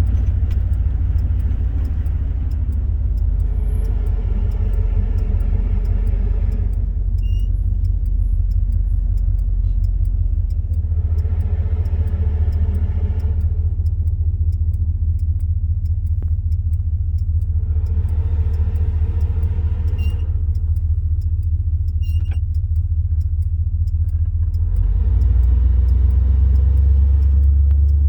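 Steady low rumble of a car driving, engine and tyres heard from inside the moving car. A higher hum rises and fades several times, each spell lasting a few seconds.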